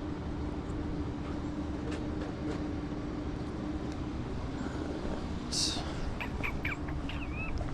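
Steady vehicle running noise with a low hum throughout, a short hiss about five and a half seconds in, and a few brief chirps near the end.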